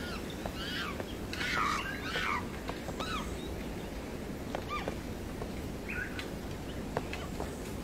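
Birds calling: short chirps and whistles gliding up and down, scattered irregularly, over a steady outdoor ambience, with a few faint clicks in between.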